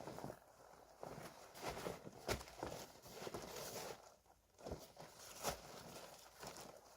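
Irregular footsteps and the rustle and crinkle of a plastic tarp pond liner being handled, with a few sharp knocks.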